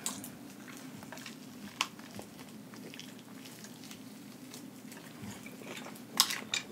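Close-miked eating of a Flamin' Hot Cheeto-crusted fried chicken wing: a few scattered wet mouth clicks and crunches, with a louder cluster of crunches near the end, over a low steady hum.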